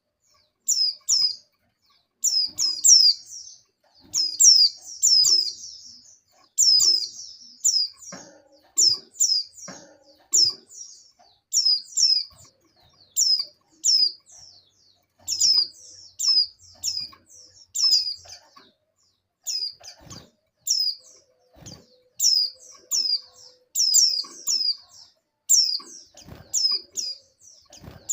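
Female white-eye (pleci) giving short, high, down-slurred chirps, singly or in quick runs of two to four about every second. This is a female in breeding condition calling for a male.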